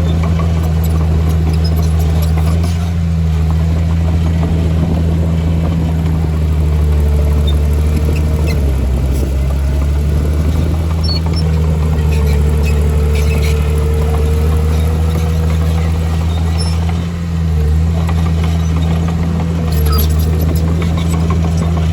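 Heavy earthmoving machinery's diesel engine running steadily with a deep drone, a faint whine wavering in pitch through the middle, and scattered light clicks and clatter.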